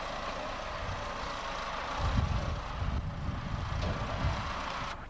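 Heavy machinery running with a steady hiss, and low rumbling knocks from about two seconds in; it starts and stops abruptly.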